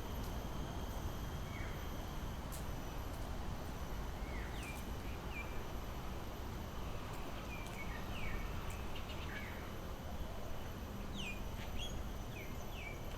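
Birds giving short chirps, scattered singly and in small clusters over the second half, above a steady outdoor background hiss with faint constant high-pitched tones.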